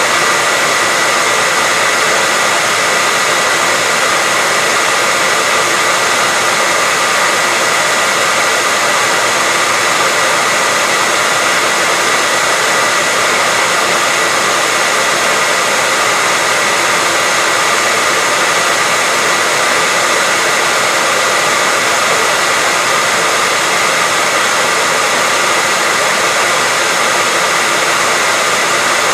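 Hair dryer blowing continuously: a steady, unchanging rushing hiss with a constant whine from the motor.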